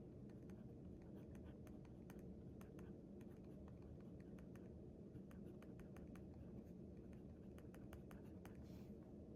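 Faint writing on paper: many small, irregular ticks and scratches of the writing tip on the page, with a longer scratchy stroke near the end, over a steady low room hum.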